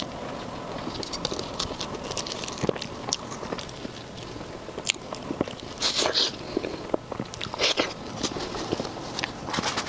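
Close-miked chewing and biting of food, with many small wet mouth clicks and two louder wet bursts about six and eight seconds in.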